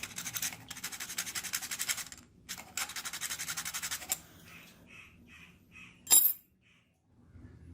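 Rapid scrubbing strokes of a brush on rusty pliers, in two runs that stop about four seconds in; a few faint ticks follow, then a single sharp click about six seconds in.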